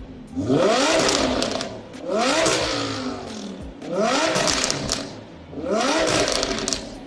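Lamborghini Huracán LP610-4's V10 revved from idle through a Fi Exhaust valvetronic titanium cat-back exhaust. There are four blips, about one every two seconds, each rising in pitch and falling back toward idle.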